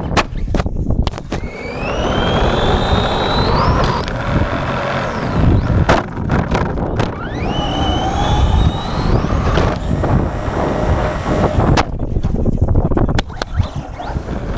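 Electric RC monster truck's brushless motor whining up in pitch as it accelerates hard, twice, over a constant rumble of tyres and wind noise, with a few abrupt cuts between clips.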